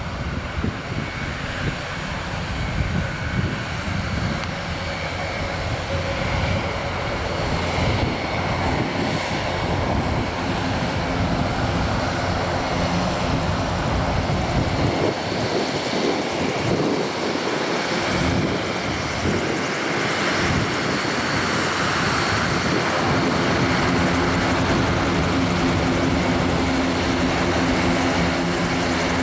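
The four TP400 turboprop engines of an Airbus A400M Atlas running at taxi power, growing steadily louder as the aircraft comes closer. In the last few seconds a steady hum of propeller tones comes through the engine noise.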